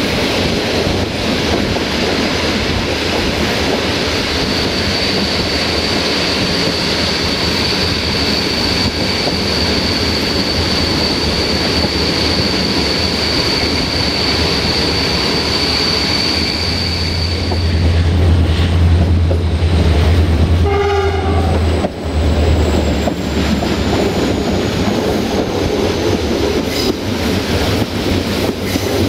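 Diesel-hauled passenger train running along the line, heard from an open coach window: steady rolling and rushing noise with wheel clatter. A thin, steady high squeal runs for about a dozen seconds, and a heavier low rumble swells in the second half.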